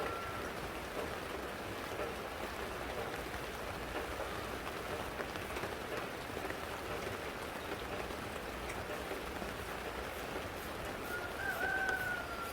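Steady patter of rain, with a short whistle-like call that rises slightly and then falls, near the end.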